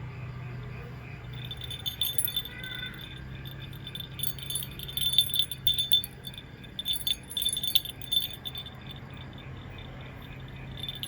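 Metallic jingling in several irregular bursts, starting about a second and a half in and stopping a little after the middle, over a steady low hum.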